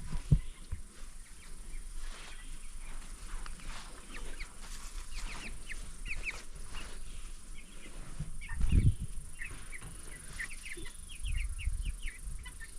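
Young Cornish cross meat chicks peeping, many short high cheeps overlapping. A low knock comes near the start, and a louder low thud about nine seconds in.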